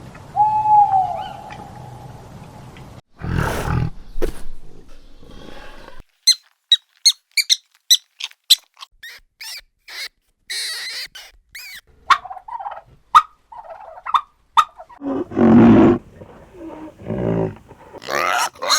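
A string of different animal calls, one after another. First comes a long held call, then a quick run of short high chirps about three or four a second, then scattered short calls and a loud low call near the end.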